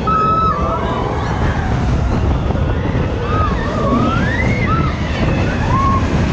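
Steady, loud low rumble of wind buffeting the microphone, with faint short whistling glides above it.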